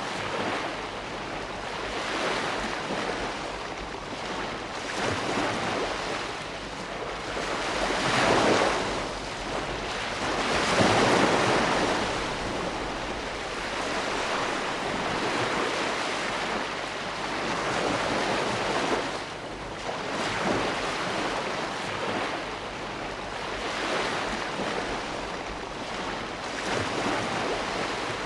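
Ocean waves breaking and washing on a shore, a steady rush of surf that swells and ebbs every few seconds, the biggest waves about eight and eleven seconds in.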